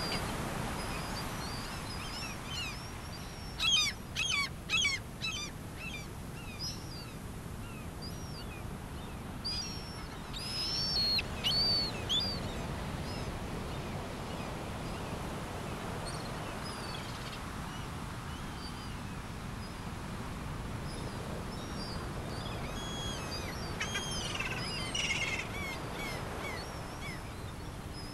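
Birds chirping in three short flurries of high calls, about four seconds in, around eleven seconds and again near the end, over a steady background hiss.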